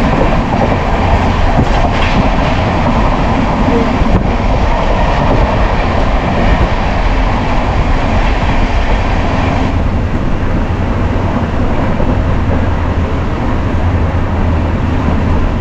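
Express passenger train coach running at about 100 km/h, heard at an open window: a steady rush of wheel-on-rail noise and wind. About ten seconds in the hiss eases and a low hum comes forward.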